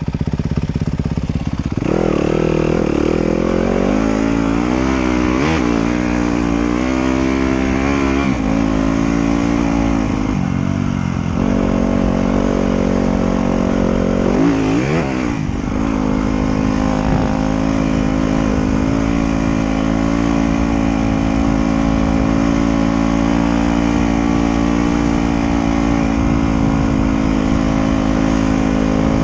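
Trail motorcycle engine running under way. Its pitch rises and falls with the throttle several times through the first half, then holds steady.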